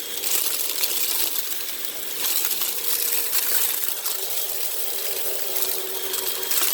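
Hoover WindTunnel High Capacity Pet upright vacuum running with a steady motor whine, as sand, grit and broken bits of debris crackle and rattle up through it.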